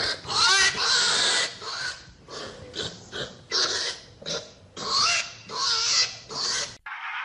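Pigs squealing in a string of short, loud, pitch-bending calls, about a dozen in a row, cut off abruptly near the end.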